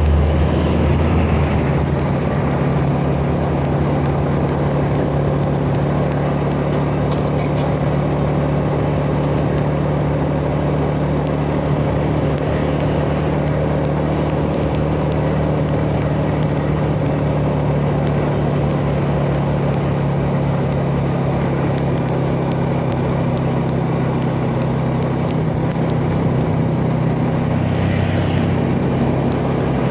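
Yamaha Jupiter Z 110 cc single-cylinder four-stroke engine running at a steady cruising speed while the motorcycle is ridden, the engine note holding level with little change in pitch.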